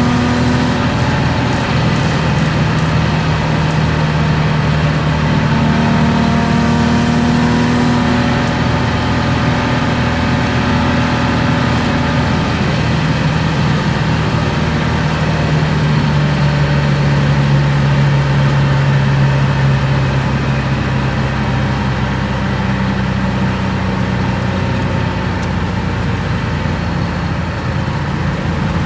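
BMW E36 325i's M50B25 straight-six, fitted with aftermarket headers and exhaust, running at fairly steady revs, heard from inside the cabin over road noise. Engine pitch drifts only slowly, with no hard revving.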